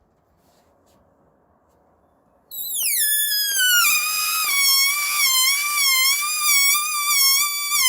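Air squealing out of the stretched neck of a balloon being let down slowly. After about two and a half seconds of near quiet, a loud high squeal starts, drops quickly in pitch, then keeps going with a wobbling, warbling pitch.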